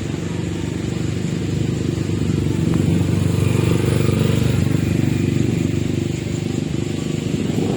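A small engine running steadily, growing a little louder in the middle, with a few faint high chirps above it.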